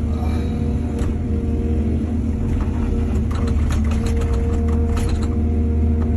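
Excavator's diesel engine running steadily, with a run of rapid clattering knocks for a few seconds past the middle.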